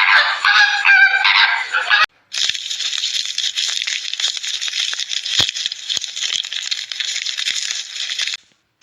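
Honking bird calls for about two seconds, then, after a brief break, a dense, steady high-pitched chatter with scattered clicks that stops shortly before the end.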